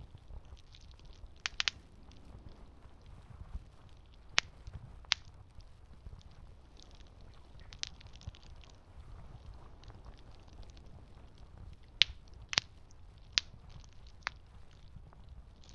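Campfire burning with a low steady rumble and sharp, irregular pops and crackles, most of them between about 1.5 and 14.5 seconds in.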